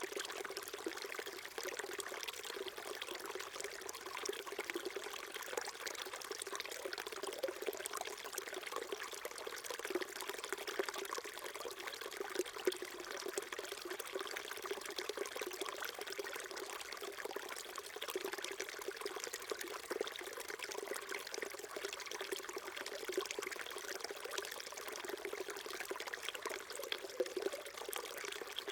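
Small stream trickling and babbling over stones, a steady even burble with many small splashes.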